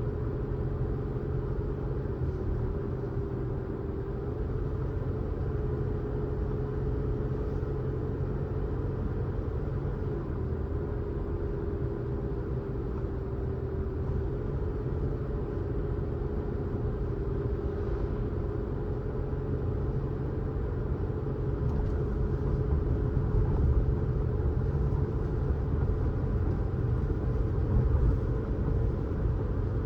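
Car driving on the road: a steady low rumble of road and engine noise with a droning tone that wavers slightly in pitch, getting a little louder in the last third.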